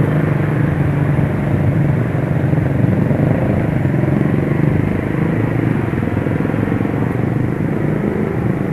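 Honda CS1's single-cylinder four-stroke engine running steadily at low speed in slow street traffic, mixed with road and wind noise at the helmet microphone.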